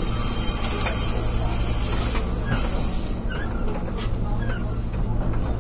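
Pingxi Line diesel railcar running along curving single track: a steady low engine and rail rumble with high-pitched wheel squeal from the curve, which fades away about halfway through.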